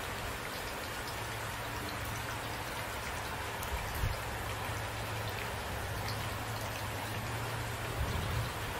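Steady rain falling, with a couple of brief low knocks about halfway through and again near the end.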